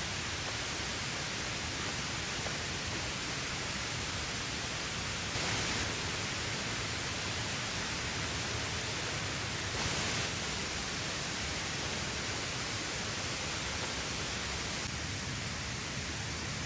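Steady rushing of falling water, an even hiss with no breaks, swelling briefly a little louder about five and ten seconds in.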